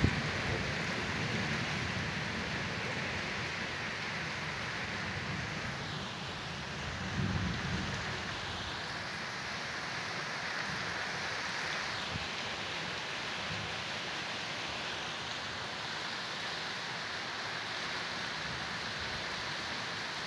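Heavy rain falling steadily in a downpour. A loud low boom of thunder dies away at the very start, and a softer rumble swells about seven seconds in.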